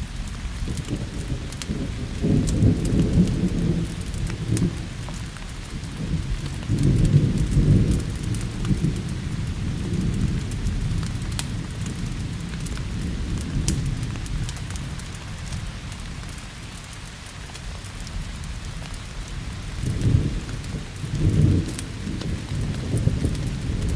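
Steady rain with rolls of thunder: low rumbles swell up a few seconds in, again about seven seconds in, and twice more near the end, over a constant patter with sharp ticks.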